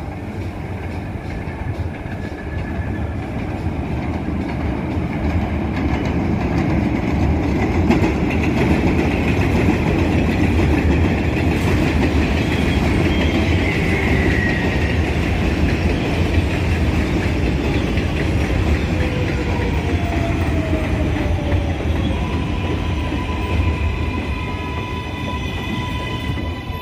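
New York City Subway R188 train on the 7 line clattering over the rail joints, growing louder over the first several seconds. Near the end a whine slides down in pitch as the train slows.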